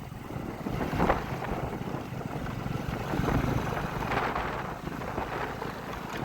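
Wind buffeting the microphone: a steady low rumble that swells about a second in and again around four seconds in.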